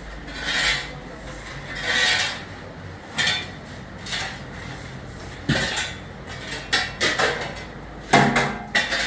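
A few broad scraping strokes, then a run of clinks and clatters of pots, dishes and utensils being handled, growing busier near the end.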